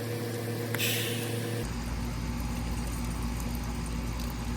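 Electric fan motor running with a steady hum. A short burst of hiss comes about a second in.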